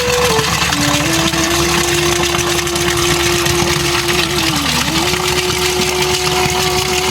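Steady hiss of heavy rain, with a slow melody of long held notes from background music over it.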